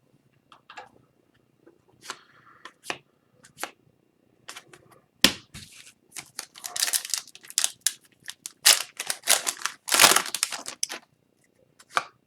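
Foil wrapper of a hockey card pack being torn open and crumpled, loudest in the second half. A few light clicks of cards being handled come before it.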